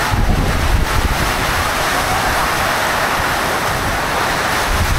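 Torrential rain pouring down in a sudden storm, a loud steady hiss, with strong wind gusting against the microphone as a rumble near the start and again near the end.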